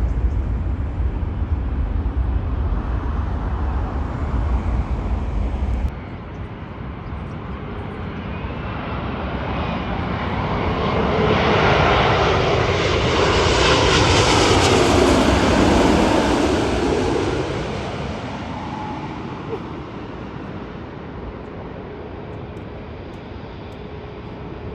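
Jet airliner passing by: its engine noise swells to a loud peak about halfway through, then fades away. Before that, a low rumble in the first six seconds cuts off suddenly.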